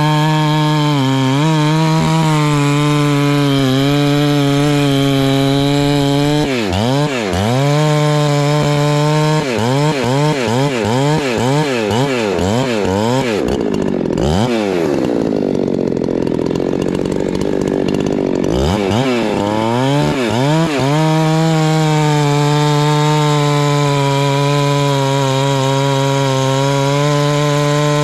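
Husqvarna 390 two-stroke chainsaw running at full throttle, its pitch dipping and recovering as it is worked. About halfway in, the pitch drops away for several seconds and then winds back up to a steady high whine.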